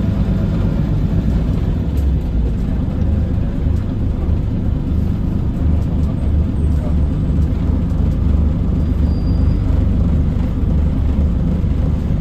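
Scania L94UB city bus under way, its rear-mounted diesel engine and running gear making a steady low rumble from on board.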